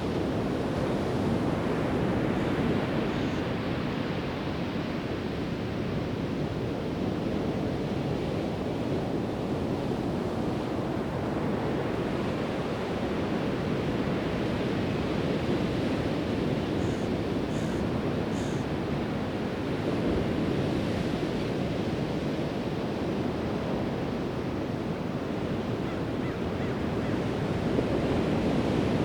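Pacific Ocean surf breaking on a sandy beach: a steady wash of waves that swells and eases every several seconds. A few faint, short high chirps a little past halfway.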